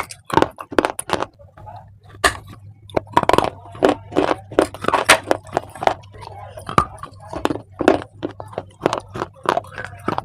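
Close-up crunching of dry clay lumps being bitten and chewed: rapid, irregular sharp crunches and cracks, several a second.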